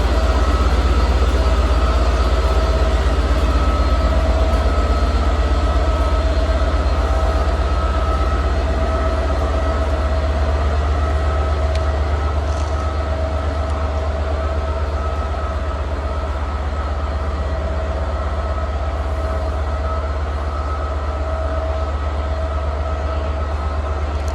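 Class 67 diesel-electric locomotive 67029 idling: a steady low engine rumble with a constant whine.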